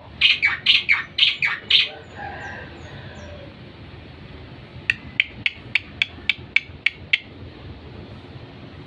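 A bird calling: six loud, down-sweeping calls in quick succession, then softer chirps, then a run of about nine short sharp chirps at roughly four a second.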